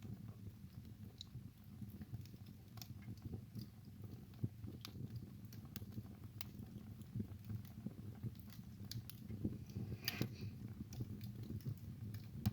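Wood fire burning in a fireplace: irregular sharp crackles and pops over a soft, steady low rumble of the flames, with a short flurry of crackles near the end.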